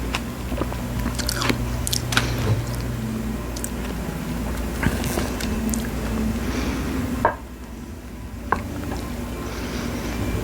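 Close-miked biting and chewing of fresh strawberries with whipped cream, with scattered short mouth clicks over a steady low hum. The hum drops out for about a second around seven seconds in.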